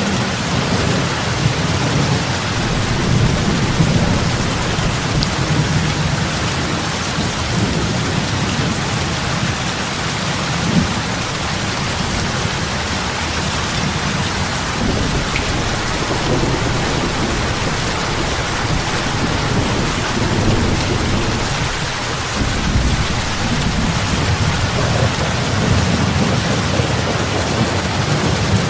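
Heavy rain falling on lake water: a steady hiss of drops with a low rumble underneath that swells and fades.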